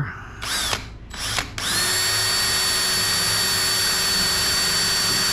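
Power drill: two short blips of the trigger, then a steady run at constant full speed working into soft pine.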